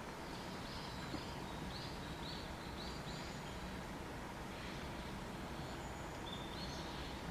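Higurashi (evening cicada) calling in a string of short, high notes, over a steady low background rush.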